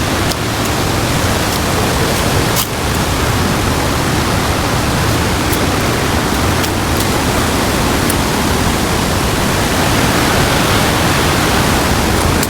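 Steady, loud rushing noise with a few faint clicks.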